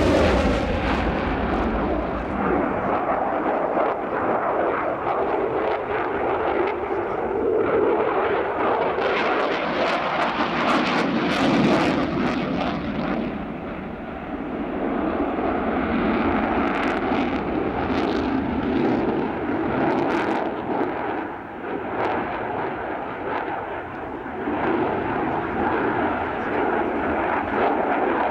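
Aircraft engine noise from a plane flying a display. It is a continuous roar that swells and fades, dipping briefly a few times.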